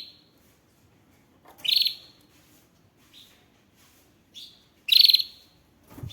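Canary singing in short bursts of fast, rattling trills, several brief phrases with pauses between them, the loudest about five seconds in. A soft low thump just before the end.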